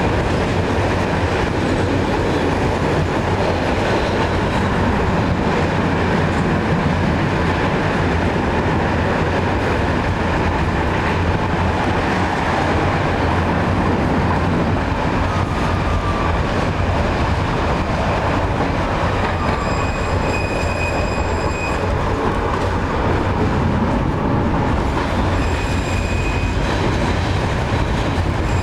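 71-623 tram running along the track: steady wheel-and-rail rumble with a low electrical hum. A high whistling tone comes in for about two seconds past the two-thirds mark and briefly again near the end.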